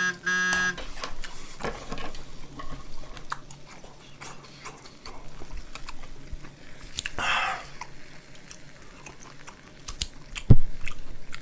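Close-miked chewing of a grilled beef brisket wrap, with scattered clicks of metal tongs working on an electric griddle as kimchi is laid on, and one sharp click near the end. A music sting dies away in the first second.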